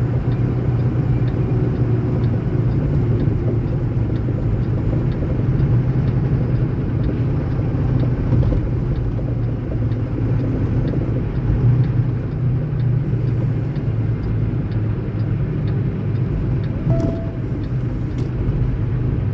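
Semi-truck's diesel engine running at low speed, heard from inside the cab as a steady low hum, with a faint even ticking of the turn signal or hazard lights about twice a second.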